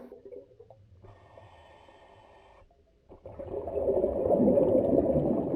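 A faint, steady whale-like call, then from about three seconds in a rushing, watery noise that swells and holds, like an underwater sound effect.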